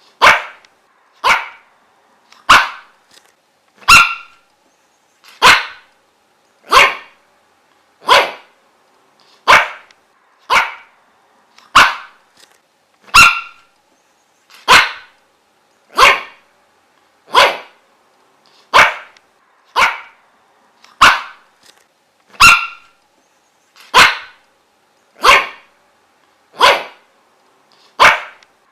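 A dog barking single barks over and over at a steady pace, about three barks every four seconds, each short and sharp.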